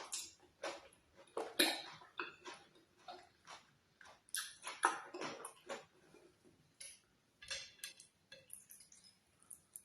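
Close-miked eating of oatmeal fufu with ogbono soup: irregular wet clicks and smacks of chewing. They come thickly for the first half and thin out toward the end.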